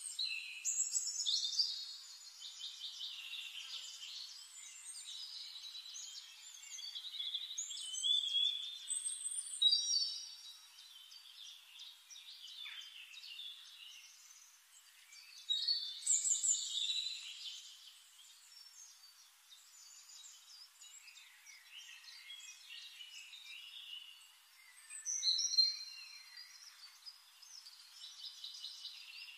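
Forest birds singing and chirping: high-pitched calls and trills from several birds, coming in bursts with quieter stretches between.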